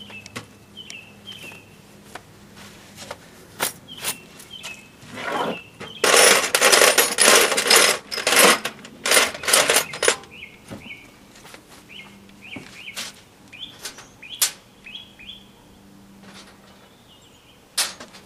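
Small metal screws clinking and rattling as they are handled and picked through, densest for a couple of seconds in the middle, with sharp clicks before and after. Birds chirp in short calls in the background.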